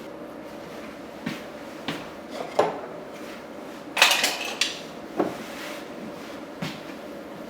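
Dishes and utensils being handled: about seven irregular knocks and clinks, the loudest a ringing clink about four seconds in, over a faint steady hum.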